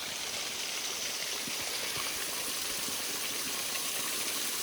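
Steady rush of water falling at a waterfall that is partly frozen.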